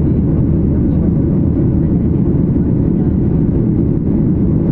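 Airliner cabin noise: a steady, loud low rumble from the engines and airflow in flight.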